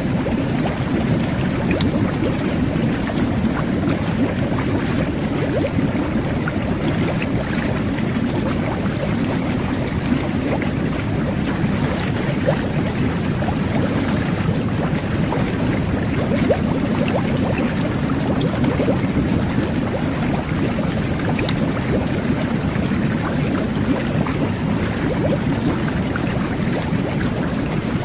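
Jet bath (whirlpool tub) running: its water jets churn the bathwater into a steady, dense bubbling rush, heaviest in the low range.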